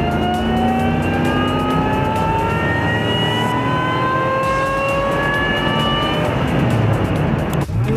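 2003 Chevrolet Avalanche Z71's V8 with a Magnuson Radix MP112 supercharger, accelerating hard. The supercharger and engine whine rise steadily in pitch for about six seconds. Near the end there is a short break, and the pitch starts climbing again from lower down.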